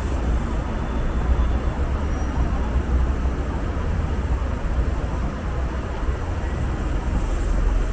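Steady city traffic noise with a heavy low rumble underneath.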